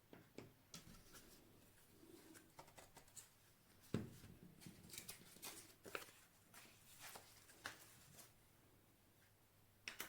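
Faint scattered clicks and rustles of small things being handled, with one soft thump about four seconds in.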